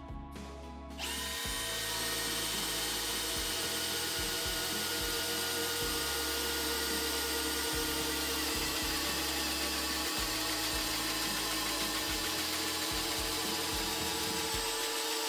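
Cordless drill driver running steadily, coming in about a second in with a constant whine and a dense whirring noise.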